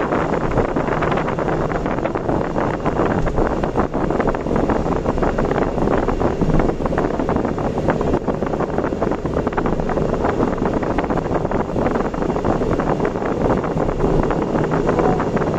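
Steady rush of wind and road noise from a vehicle travelling at speed on an expressway, with no engine note standing out.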